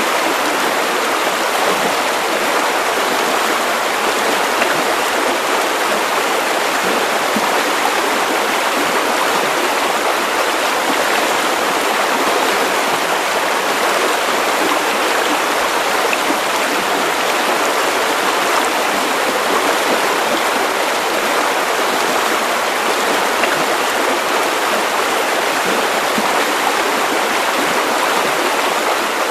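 Steady white noise for a baby's sleep: an even, unchanging hiss with no deep rumble.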